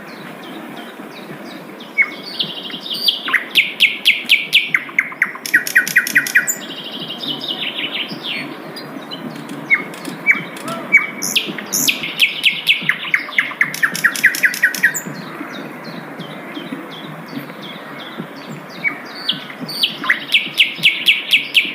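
Sikatan londo flycatcher singing: phrases of fast, evenly repeated high notes that step between pitches, starting about two seconds in, pausing for a few seconds after the middle, then resuming near the end, over a steady low background noise.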